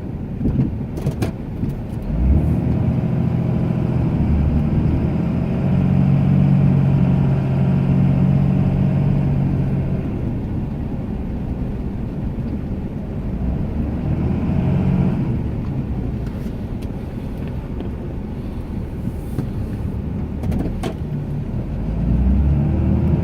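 Ram 2500 pickup's engine running under load while plowing snow, revving up and easing off several times, loudest about a quarter of the way in and again near the end.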